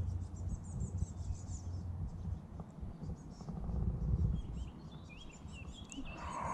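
Small birds chirping in quick high, thin notes, first a rapid twitter and then a short run of curving chirps past the middle, over a steady low rumble on the microphone.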